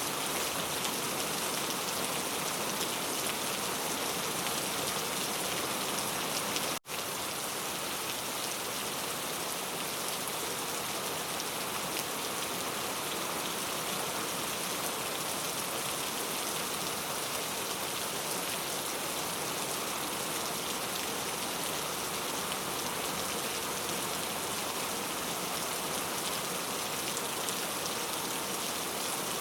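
Steady rainfall: an even hiss of drops that does not change, broken by a momentary cut in the sound about seven seconds in.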